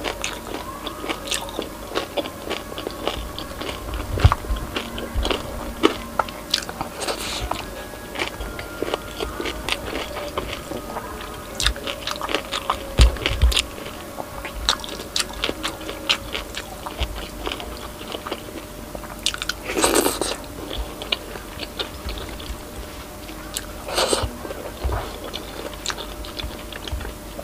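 Close-miked chewing with many small, sharp crunches of crispy deep-fried pork knuckle skin (crispy pata), and one louder crunch about twenty seconds in.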